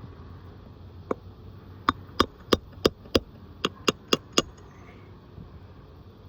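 Hammer blows: a single strike, then a quick run of nine at about three a second with a short break partway through.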